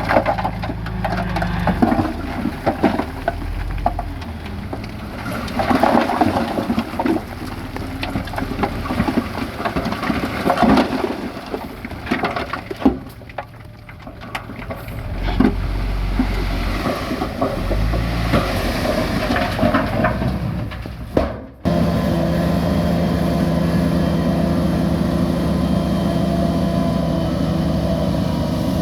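Heavy diesel engine of a bulldozer working, under irregular crunching and cracking of soil and rock being pushed. About three-quarters of the way through the sound cuts off abruptly and is replaced by a steady, even engine drone.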